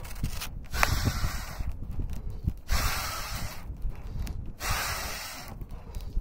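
Rhythmic rushes of breath-like hissing close to the microphone, about one every two seconds, over a low rumble and faint small clicks.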